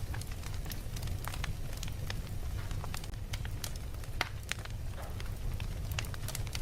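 Wood fire burning with a steady low rumble and irregular sharp crackles and pops, one louder pop about four seconds in.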